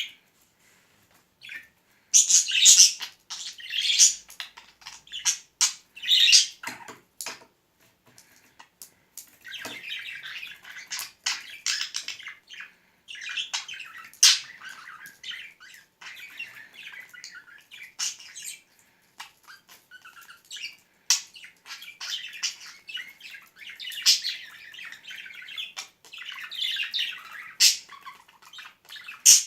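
Pet budgerigar chattering and squawking in short, broken bursts, with many sharp clicks and taps between them.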